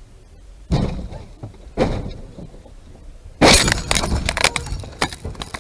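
Collision with breaking glass: two sudden impacts, then a louder smash about three and a half seconds in, followed by a second or more of glass and debris crackling and rattling.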